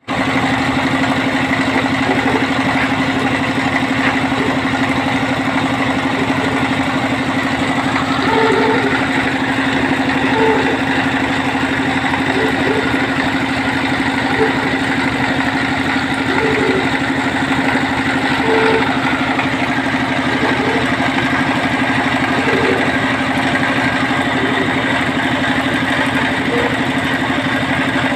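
Engine of a well-drilling machine running steadily at a constant speed, giving an even drone.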